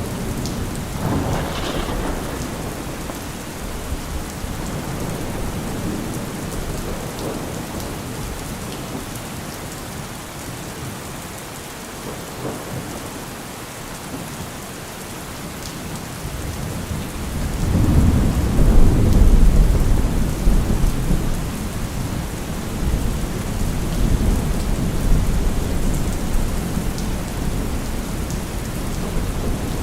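Steady rain with rolling thunder. A thunderclap comes in the first two seconds, and about halfway through a long, deep rumble swells up, the loudest part, then slowly fades back under the rain.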